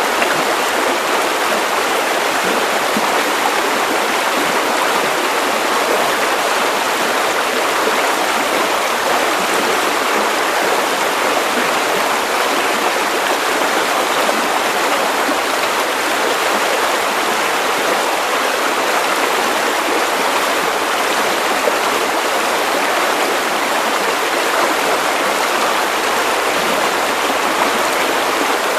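Steady white noise for baby sleep: an even, unchanging hiss with little deep bass.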